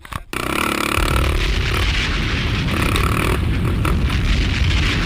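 Quad ATV engine running under heavy wind buffeting on the camera microphone, starting abruptly a moment in and then holding steady.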